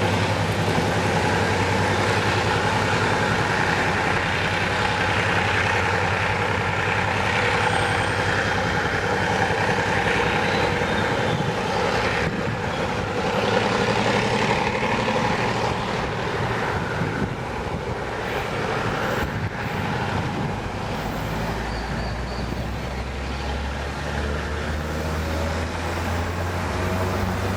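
GM G12 diesel-electric locomotive running steadily with the broad noise of the moving train, its engine a steady drone. A deeper low rumble comes in about two-thirds of the way through.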